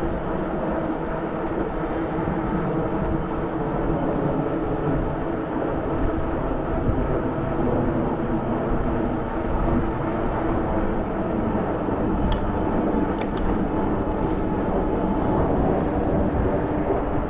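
E-bike riding noise: wind rushing over the camera microphone, with a steady hum from the tyres and drivetrain underneath. A couple of light clicks or rattles come in the later part.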